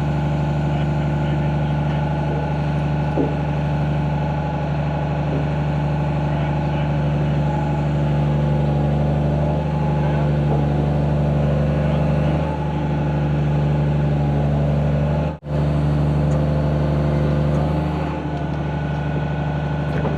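Diesel engine of a John Deere 250G LCR excavator running steadily while the machine works, with a few light knocks over the top. The sound cuts out for an instant about fifteen seconds in.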